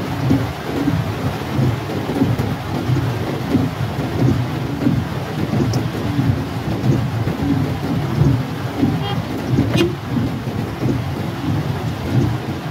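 Heavy rain falling on the car's roof and windshield, heard from inside the cabin as a steady, low, fluttering rumble.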